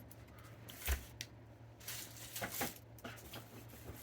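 Firework packages being handled and set down: a knock with a dull thump about a second in, then a few short rustles and clicks.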